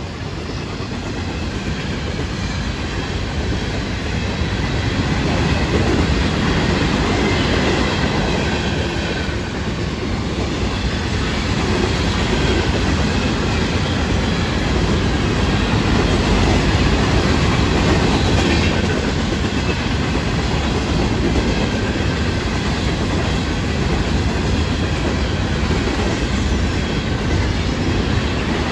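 Freight train hopper cars rolling past close by, steel wheels rumbling and clattering on the rails. It grows louder over the first few seconds, then holds steady.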